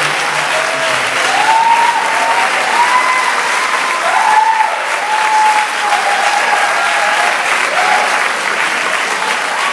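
Audience applauding at the end of a big band performance, with high cheering calls rising and falling over the clapping.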